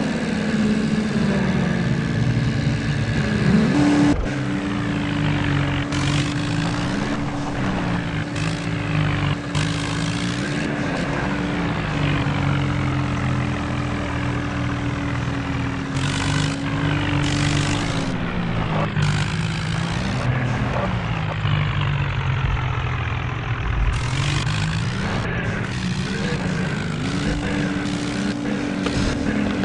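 Tractor diesel engines running under heavy load, their pitch sagging and picking back up several times as they labour.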